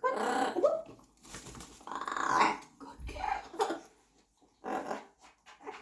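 Yellow-naped amazon parrot vocalising: about four calls with gaps between, the first right at the start and another around two seconds in.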